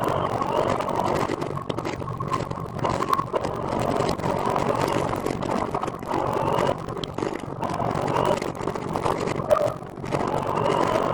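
Steady road and vehicle noise, with faint wavering engine-like tones, dipping briefly near the end.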